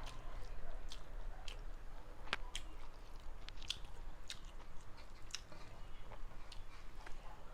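A person chewing a mouthful of food close to the microphone, with irregular wet clicks and smacks of the mouth several times a second.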